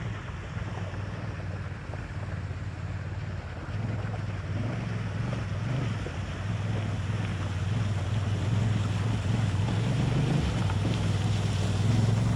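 Honda Africa Twin motorcycle engine pulling steadily while the bike rides through a river crossing, with water rushing and splashing around it. The engine note grows a little louder toward the end.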